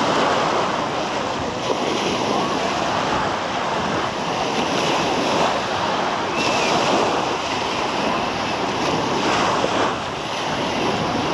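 Sea waves washing steadily onto the beach, with wind on the microphone.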